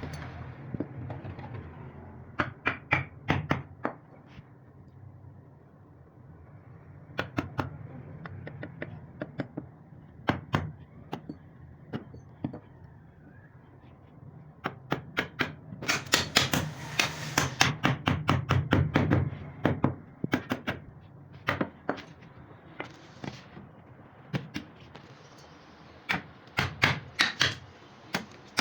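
Hammer tapping on wood in quick runs of sharp strikes with short pauses between, the longest and densest run in the middle.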